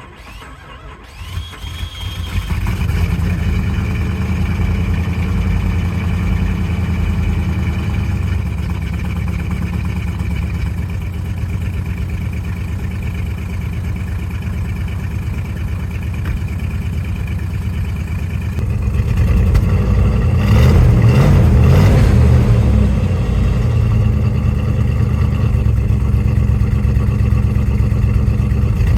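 Jeep Grand Cherokee ZJ's 5.2-litre V8 cold-starting at −24 °C: a short crank, it catches about two seconds in and settles into a steady idle. The engine gets louder about 19 seconds in and stays louder.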